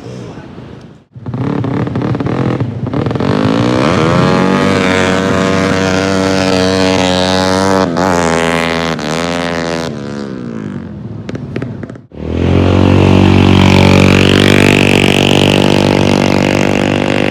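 Racing engines running hard, their pitch climbing and dropping as they rev through the gears. There are abrupt cuts about a second in and again about twelve seconds in, after which an engine is held at high revs.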